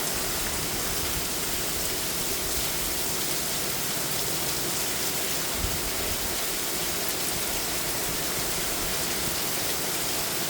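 Very heavy rain pouring down in a steady, unbroken hiss, the downpour 'hammering down'. A single faint low thump comes about halfway through.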